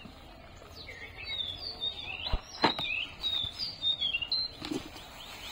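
Small birds chirping in quick, short calls, with two sharp knocks about two and a half seconds in.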